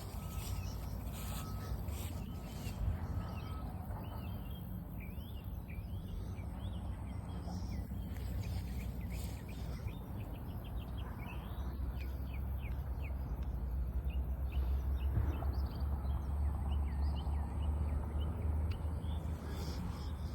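Many short bird chirps over a low rumble that grows louder in the second half. A vehicle's reversing beeper beeps steadily during the first few seconds.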